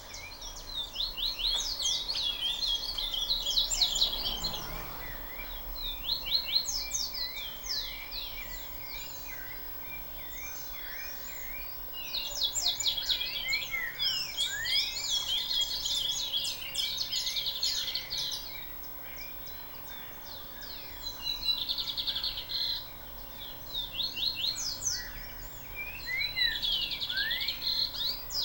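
Birds chirping in dense bursts of rapid, high, quickly falling notes, with a couple of quieter stretches in between.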